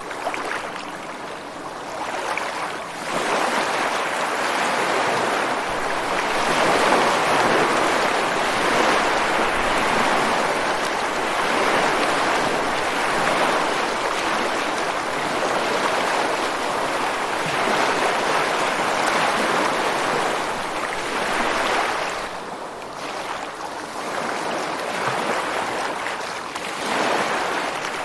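Ocean surf breaking on a beach and washing over rocks: a continuous rushing that swells into a long sustained wash and ebbs briefly before another wave rises near the end.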